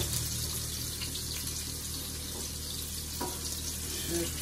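Lobster pieces frying in oil in a nonstick pan, a steady sizzling hiss, as a wooden spoon stirs them, with one light knock about three seconds in.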